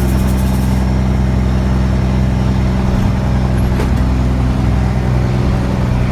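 Dump truck's engine running steadily, a low even hum heard from inside the cab.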